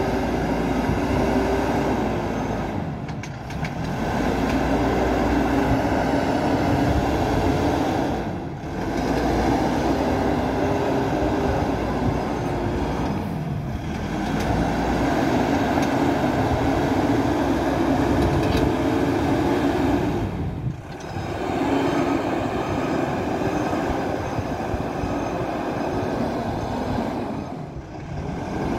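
MST 642S backhoe loader's diesel engine running under working load, its pitch rising and falling as it works. The sound drops briefly about every five to seven seconds.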